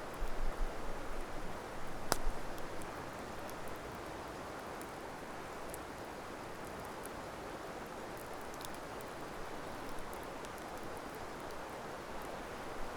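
Wood campfire crackling, with sparse small pops and one sharp pop about two seconds in, over a steady rushing hiss.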